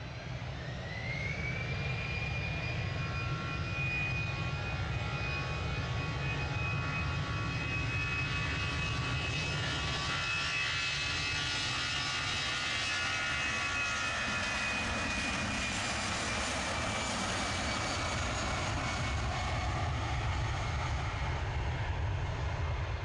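Jet airliner's engines spooling up to takeoff power: a whine that rises for about a second and then holds steady over a low rumble, fading near the end.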